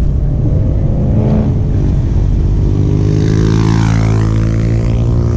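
Car engines rumbling at low revs in slow cruise traffic, with one vehicle passing close by about three to four seconds in.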